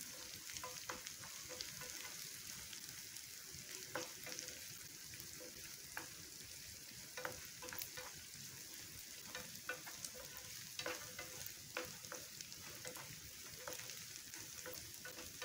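Onions and peanuts sizzling in oil in a nonstick frying pan as they fry toward golden brown, stirred with a wooden spatula that scrapes and knocks against the pan at irregular moments.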